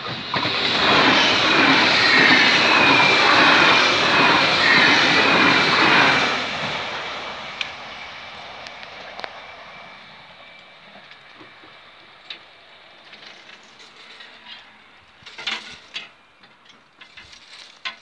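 A train rushing past over a level crossing for about six seconds, then fading away down the line. Near the end, a few clicks and knocks as the crossing barriers go up.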